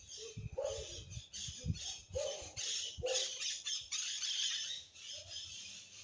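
Birds calling: a dense high-pitched chatter with a few short, lower squawk-like calls in the first half.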